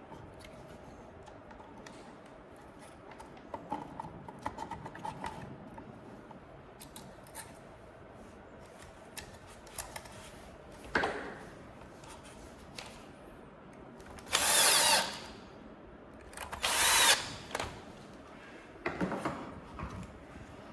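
Electric screwdriver driving screws in two short runs of about a second each, a little past the middle, with lighter clinks and scrapes of metal parts and tools being handled between them.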